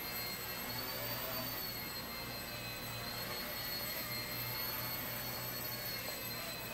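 Blade 70S micro RC helicopter in flight: the high, steady whine of its small electric motors and spinning rotor, the pitch wavering slightly up and down as the throttle changes.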